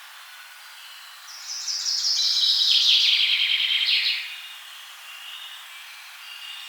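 A songbird sings one loud phrase of rapid trilled notes that steps down in pitch over about three seconds, starting about a second in. Other birds call faintly behind it.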